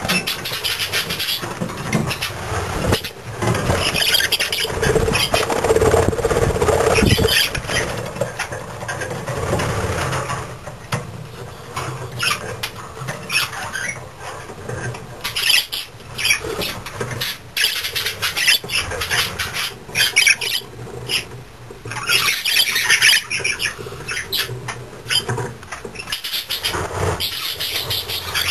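Budgerigar chicks chirping and squawking in many short, irregular calls, with a low hum underneath that is strongest in the first several seconds.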